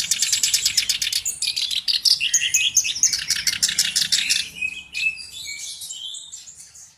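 Black-browed reed warbler singing a fast, varied chattering song of rapidly repeated high notes, fading out near the end.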